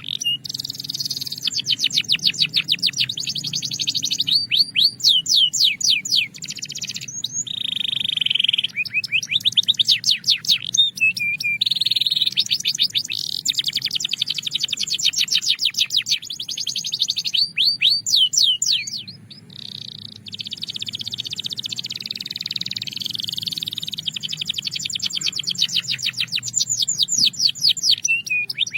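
Belgian canary singing: a long song of fast trills, runs of rapidly repeated high notes that change speed and pitch every second or two, with a few steadier held notes. The song breaks off briefly about two-thirds of the way through.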